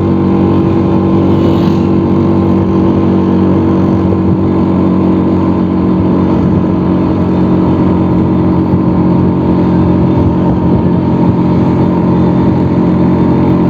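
Vespa scooter's engine running at a steady cruising speed while riding along the road, its pitch holding level.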